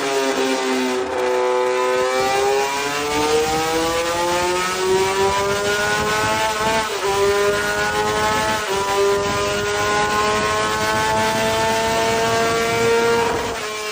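Honda RC213V-S V4 engine running under load on a dyno. A shift in pitch comes about a second in, then the revs climb slowly. Two brief breaks interrupt it about 7 and 9 seconds in, and there is a short rise and drop near the end.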